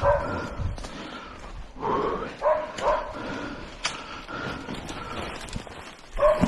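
A dog barking and yelping in short, repeated pitched calls, spread at irregular intervals.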